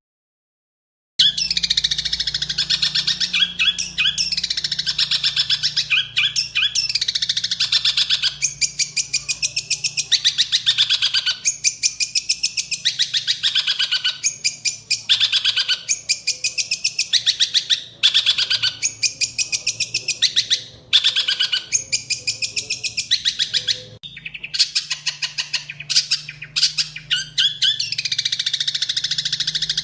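Long-tailed shrike (cendet) singing a loud, fast, continuous chattering song of rapid repeated notes, broken by short pauses. The song is filled with mimicked Eurasian tree sparrow calls. It starts about a second in.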